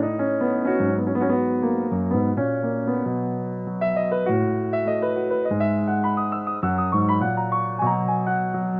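Solo piano playing a slow song, chords changing about every second.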